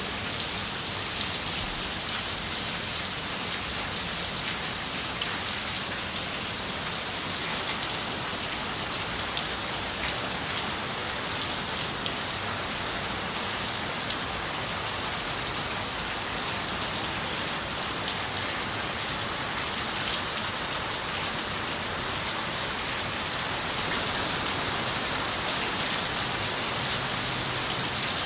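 Steady rain pattering on window glass, a dense hiss of rainfall with many small drop ticks, growing a little louder near the end.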